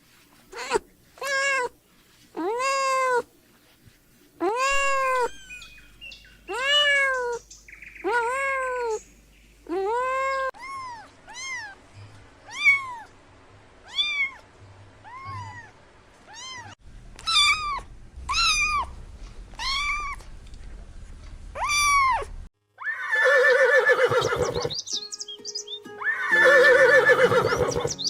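A cat meowing over and over, a string of short meows that each rise and fall in pitch, some lower and some higher. About 22 seconds in, the meowing gives way to music.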